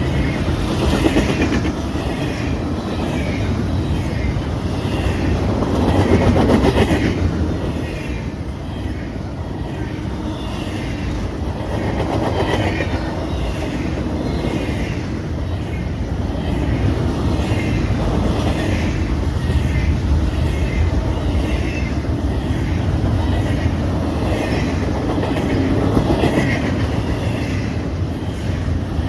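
An intermodal freight train rolling past at speed, its wheels clacking rhythmically over the rail joints under a steady rumble, which swells now and then as groups of cars go by.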